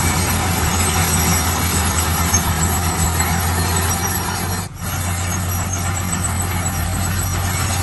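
Heavy construction machine's engine running steadily with mechanical noise, broken by a brief dropout a little past halfway.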